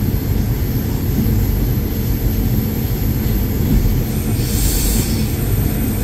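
Train running along the track, heard from inside the driver's cab: a steady low rumble, with a short hiss about four and a half seconds in.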